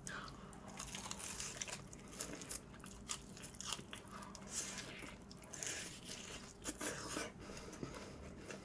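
Biting into and chewing a piece of maple butter garlic fried chicken, close to the microphone: a run of short, crisp crunches from the fried coating, mixed with chewing.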